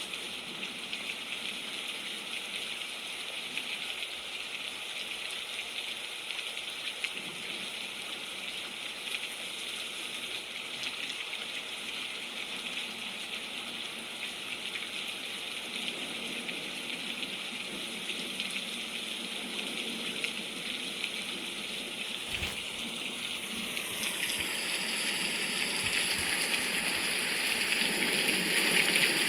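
Steady rain falling, an even hiss that grows louder over the last few seconds.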